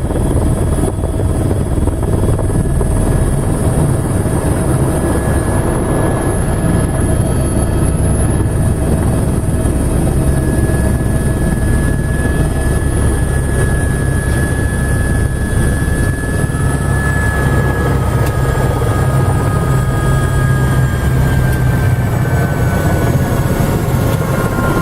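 Helicopter running steadily: a continuous heavy rotor rumble with a high turbine whine over it, the whine dipping slightly in pitch about two-thirds of the way through.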